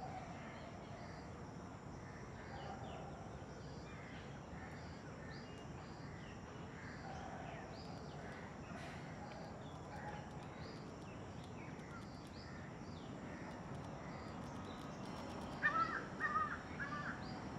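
Faint, scattered high chirps of small birds, then a louder bird call three times in quick succession near the end.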